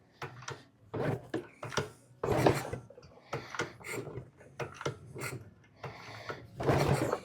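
Honda Z50 mini bike's small four-stroke single-cylinder engine being turned over by hand on the kick-starter with the choke on, in a series of irregular cranking strokes with mechanical rasping. It is trying to fire but does not catch.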